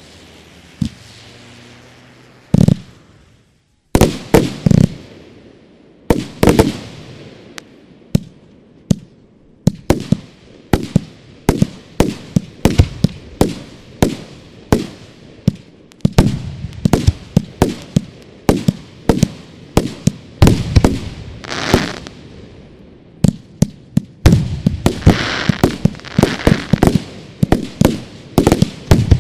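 Fireworks display: after one bang and a brief lull, a rapid barrage of sharp bangs with echoing tails, broken near the end by spells of crackling and hissing.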